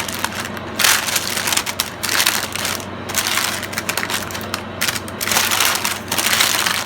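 Parchment paper crinkling and crispy rice cereal crackling as a sticky, marshmallow-coated rice cereal mixture is folded over and pressed into a pan: a continuous irregular crunching crackle.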